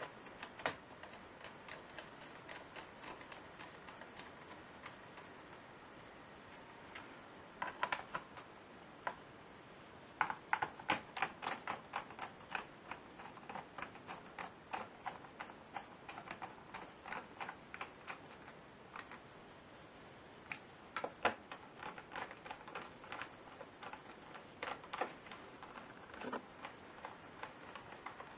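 Typing on a computer keyboard: irregular runs of quick key clicks with short pauses between, the longest run about ten seconds in.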